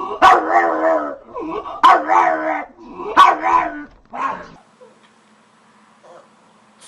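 A dog giving four long, drawn-out barks, each starting sharply and held for about half a second, the last one shorter; it stops about two-thirds of the way through.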